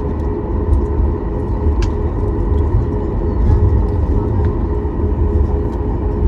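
Steady cabin rumble of a Boeing 737 MAX 9 with its CFM LEAP-1B engines running, heard from inside the passenger cabin, with a faint steady hum over it and a few light clicks.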